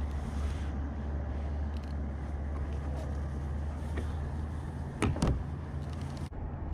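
A steady low motor hum with a few sharp clicks about four and five seconds in.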